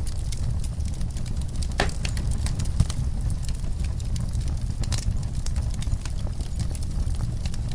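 Wood fire crackling in a fireplace: a steady low rumble with frequent small pops and snaps, two sharper pops about two and five seconds in.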